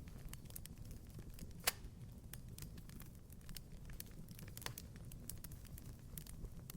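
Fireplace fire crackling: a steady run of small snaps and ticks over a low rumble, with one sharp, louder pop about a second and a half in and a weaker one near five seconds.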